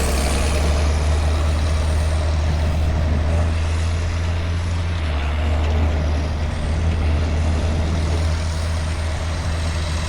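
Heavy truck's diesel engine running steadily under way, a deep low hum with road and wind noise over it.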